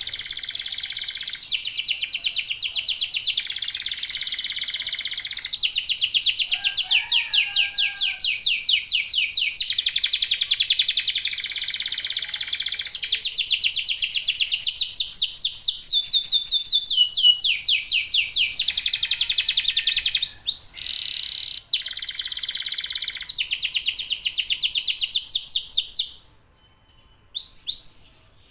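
Domestic canaries singing a long, loud run of rapid trills and rolls, one phrase running into the next. The song breaks off about 26 seconds in, leaving only a few short chirps.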